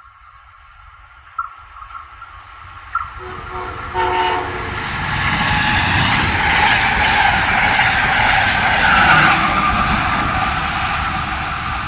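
Train approaching and passing close by. Its horn sounds a short chord about three seconds in, then the rush and rumble of the train builds and stays loud through most of the rest.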